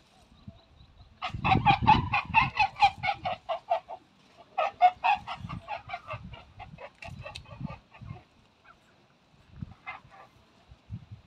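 A bird calling in two long runs of rapid, evenly repeated notes, about six a second, the second run fading out; a few stray notes follow near the end.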